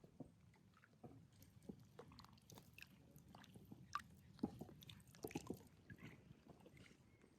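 Faint, irregular small clicks and crunches of someone chewing food.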